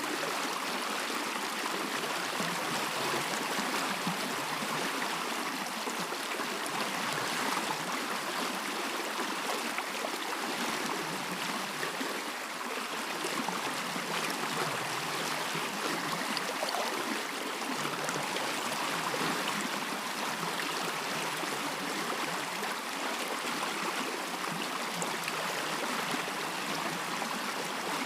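A stream running steadily, a continuous rush and babble of water.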